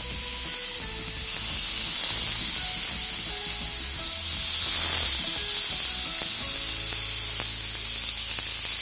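Chicken satay skewers sizzling steadily in hot oil in a pan.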